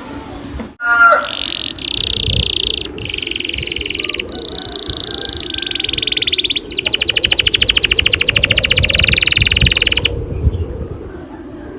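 Domestic canary singing a long rolling song: a chain of rapid high trills, each held for a second or two at a different pitch. It ends in its longest, fastest trill, which stops suddenly about ten seconds in.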